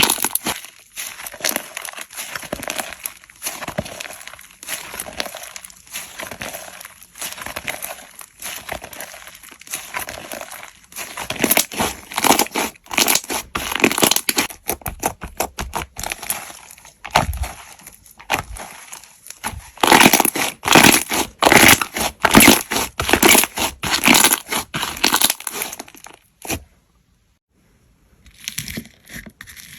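Slime being squeezed and pressed by hand, giving a dense run of crackling, clicking pops that grow louder in stretches. The sound cuts out for about a second and a half near the end, then comes back more quietly.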